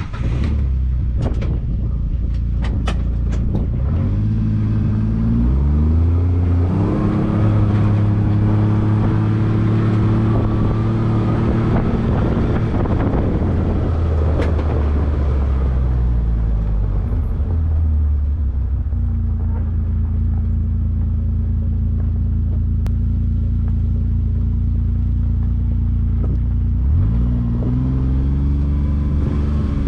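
Side-by-side utility vehicle's engine being driven. It speeds up about four seconds in and again shortly after, holds a steady run, eases down through the middle, and picks up again near the end.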